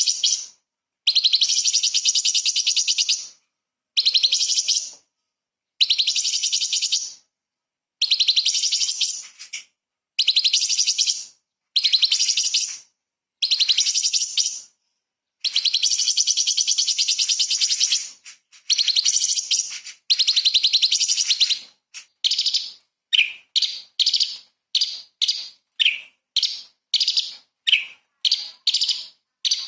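Orange-bellied leafbird singing in high, rapid chattering phrases a second or two long with short gaps between them; about two-thirds of the way through it changes to short sharp notes repeated about twice a second.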